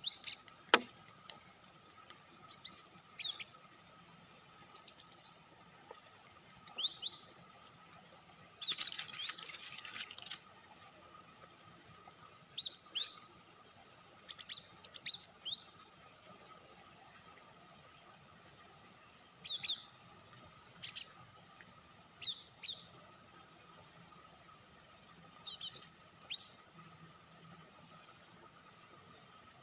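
Birds giving short, sharp chirping calls in small clusters every few seconds, over a steady high-pitched trill of insects.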